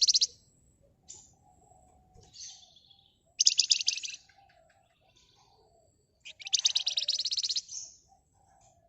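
Flamboyan (wergan Jawa) songbird giving fast, high, rattling trills, the 'ngebren' of a bird in full song. The end of one trill comes right at the start, a short one comes about three and a half seconds in, and a longer one of about a second and a half comes near six and a half seconds in. Soft, lower notes fall between the trills.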